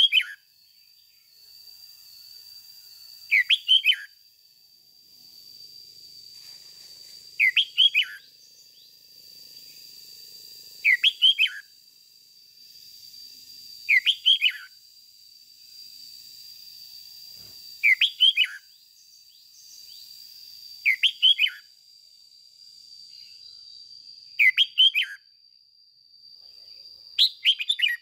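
Red-whiskered bulbul singing short, quick phrases of a few falling notes, repeated about every three and a half seconds. A thin, steady high tone runs underneath.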